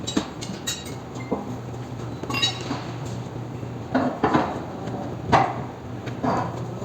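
Irregular metallic clanks and knocks of tools and parts as a roller coaster wheel assembly is being taken apart, over a steady low hum.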